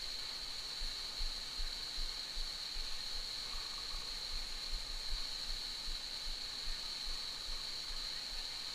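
Steady outdoor ambience of rushing stream water with a continuous high-pitched whine over it, and soft irregular low bumps.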